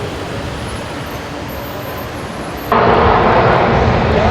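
Steady rushing noise of an airliner in flight, as heard in the cabin. About two-thirds through it cuts abruptly to a much louder engine sound with a steady drone.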